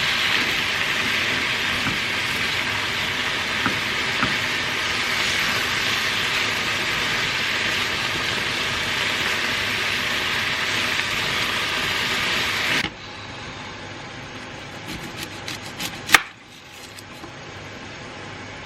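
Chicken and onions sizzling steadily in a frying pan. The sizzle cuts off suddenly about thirteen seconds in, leaving a quieter background with a sharp click a few seconds later.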